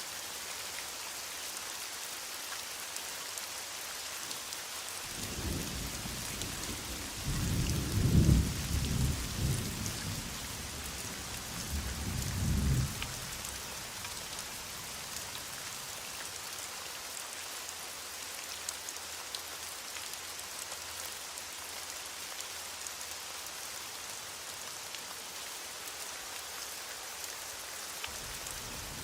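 Steady heavy rain hissing, with a low roll of thunder that comes in about five seconds in, swells twice and dies away by about the middle.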